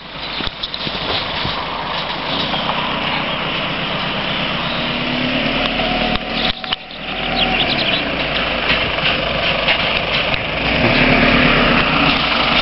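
Car engine running at low speed as a Mercedes-Benz saloon tows a trailer slowly out of a driveway, getting louder in the last couple of seconds as it nears.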